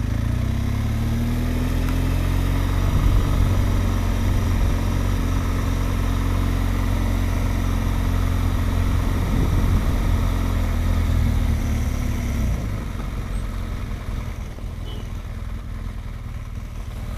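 Motorcycle engine running at low speed as the bike is ridden slowly forward. About twelve seconds in, its tone drops and it quietens.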